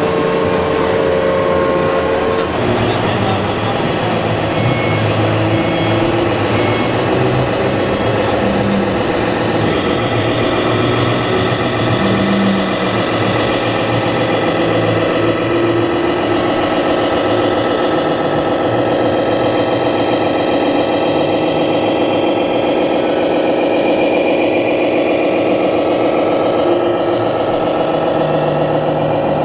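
Scale RC construction vehicles running, their engine sound drone steady with pitches drifting up and down as they idle and rev; the sound changes character about two and a half seconds in.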